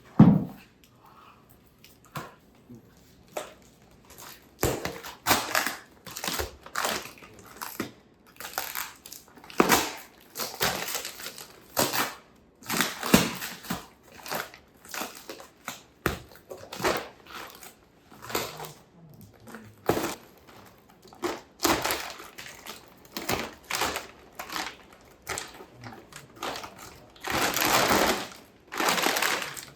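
Irregular crunches and clicks of things being handled, with a denser run of crunching near the end.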